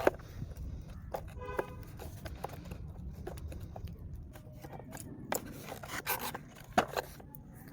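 Plastic toy tractor tyres being fitted onto their axles by hand: scattered clicks and scrapes of plastic parts. There is a brief squeak about one and a half seconds in and a few louder clicks near the end.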